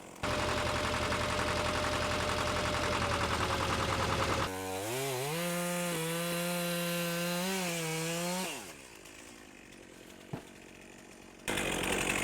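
Chainsaw cutting through a thick tree trunk for several seconds, then running on at a steady high pitch and winding down to a stop. The saw starts cutting again near the end.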